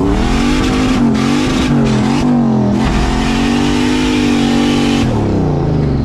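Turbocharged LS1 V8 in a BMW E46 revving hard under throttle, its pitch climbing and dropping a few times, then held high for about two seconds before falling off near the end.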